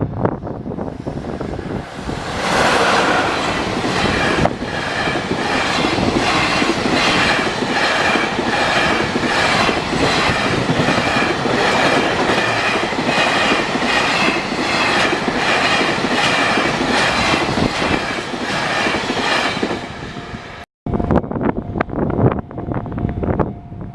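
A train passing through a level crossing, its wheels clattering rhythmically over the rail joints. The crossing's warning bell rings steadily in the opening seconds and again after a short break near the end.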